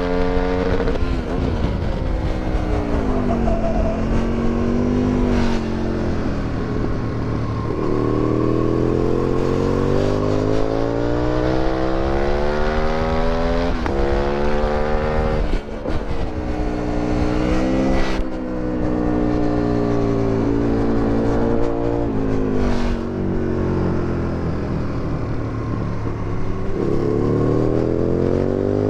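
Aprilia Tuono 1000R's 60-degree V-twin, on an Akrapovic exhaust, revving hard on a track lap: the pitch climbs through long pulls under acceleration and falls back under braking several times, with short sharp breaks at the gear changes.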